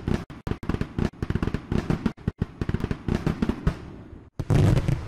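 Fireworks going off: a rapid run of sharp crackling bangs, then a louder, deeper boom about four and a half seconds in.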